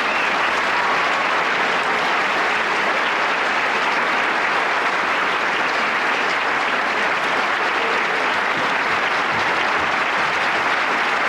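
Concert audience applauding steadily right after an orchestral piece ends.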